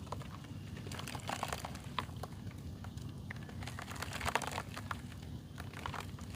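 Lumps of dry crumbly mud being crushed and crumbled, giving dense little crunches and crackles that bunch into flurries about a second and a half in and again past four seconds, over a steady low hum.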